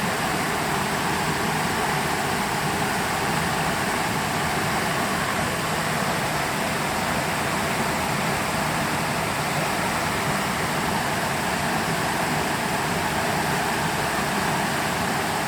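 Creek water rushing and splashing over rocks in a steady, unbroken flow.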